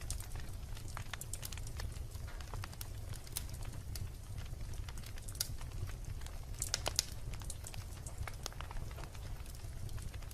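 Wood logs burning in a fireplace: irregular sharp crackles and pops over a steady low rumble of the flames, with a brief cluster of louder pops about seven seconds in.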